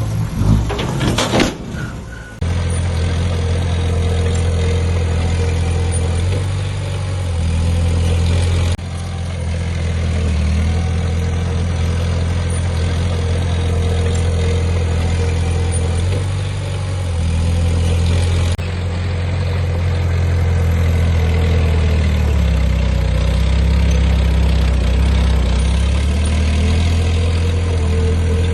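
Heavy construction machine's diesel engine running with a steady deep drone. The first two seconds are a noisier, irregular rumble, then the drone cuts in abruptly, with a couple more sudden shifts in level later.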